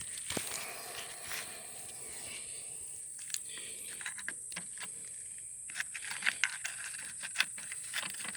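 Scattered light clicks and rattles of small tools and parts being handled, becoming more frequent in the second half, over a steady high-pitched hiss.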